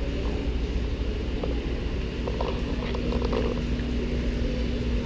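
Steady low machine hum with a faint steady tone above it, and a few faint clicks about a third of the way in.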